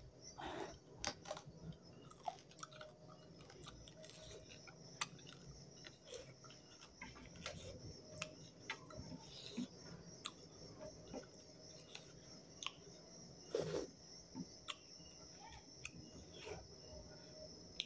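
Close-miked mouth sounds of a person eating by hand: chewing and lip smacking, with irregular soft clicks and the odd sharper tap, the loudest about thirteen seconds in. A faint steady high-pitched tone runs underneath.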